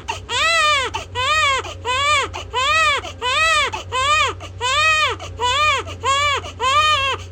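Infant crying hard: loud, short wails in a steady rhythm of about two a second, each rising and then falling in pitch.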